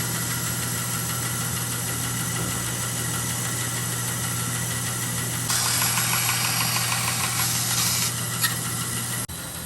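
Electric power tool's motor running steadily, getting louder and hissier from about halfway, with a fast, even ticking, before settling back; the sound cuts off abruptly near the end.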